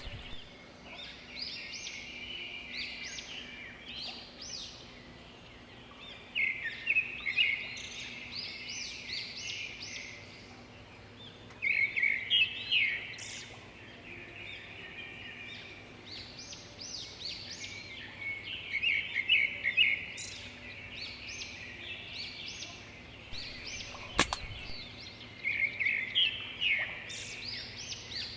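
Small birds chirping and chattering in repeated quick bursts, each group of calls lasting a second or two with short lulls between. A single sharp click comes near the end.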